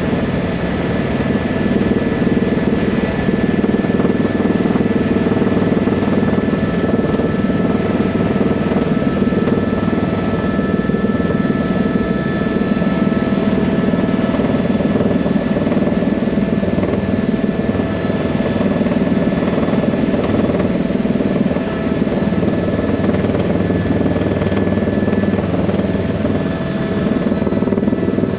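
Helicopter running steadily: the turbine whines at a fixed pitch over the dense beat of the rotor.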